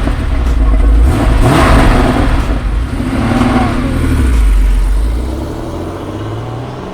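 Car engine revving in repeated swells, with a heavy low rumble, then fading away over the last couple of seconds.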